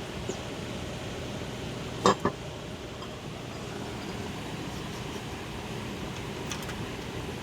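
Two sharp metallic clinks about two seconds in, from metal parts or a tool knocking against the mower deck, with a few faint ticks later, over a steady low hum.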